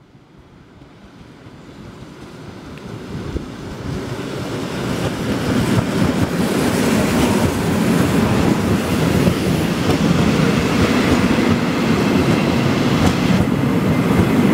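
Passenger train coming in along a platform: the sound grows over the first several seconds as the locomotive nears, then holds as a steady, loud rumble of old passenger coaches rolling past close by.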